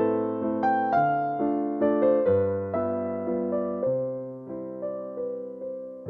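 Background music: a slow, gentle piano melody, notes struck about twice a second and left to fade.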